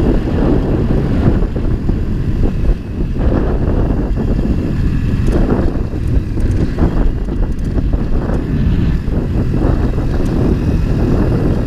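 Wind buffeting a camera's built-in microphone during a motorcycle ride, a dense low rumble that keeps surging, with the bike's running and road noise underneath.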